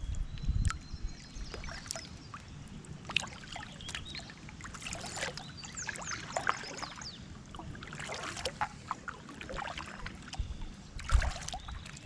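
Small splashes and drips of water around a kayak's hull and paddle, with wind rumbling on the microphone.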